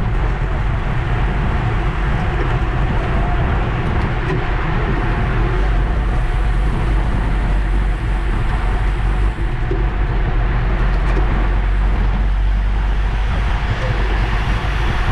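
Steady wind rushing over the microphone, with road and tyre noise, on a road bike ride. It is a loud, unbroken rumble.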